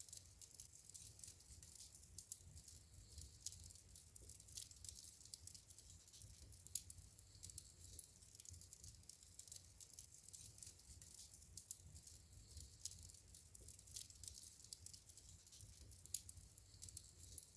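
Wood fire crackling faintly in a fireplace: frequent small, sharp pops and snaps at irregular intervals, a few louder ones standing out, over a faint low rumble of the burning.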